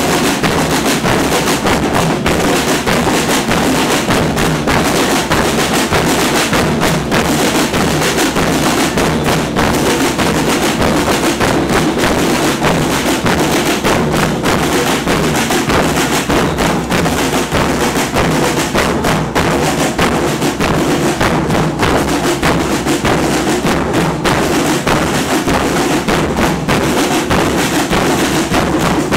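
Carnival troupe's drum section playing a continuous, loud percussion rhythm with dense, unbroken drumming.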